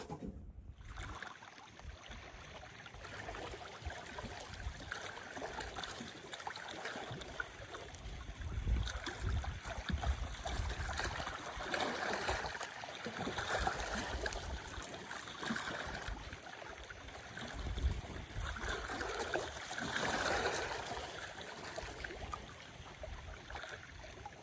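Gusty wind buffeting the microphone in deep rumbles, over lake water lapping and splashing at the shore. It swells and eases several times.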